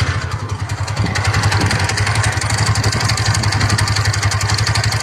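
TVS NTORQ 125 scooter's single-cylinder engine idling with a fast, even rattling clatter that sounds like a crank or piston knock, which the mechanic puts down to a worn one-way starter clutch on the magneto, its small springs and rollers gone bad.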